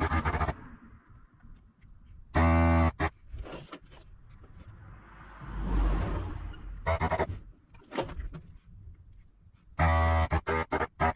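Loud, steady electric buzz switched on in short bursts, several times, each under a second, with quieter handling noise between.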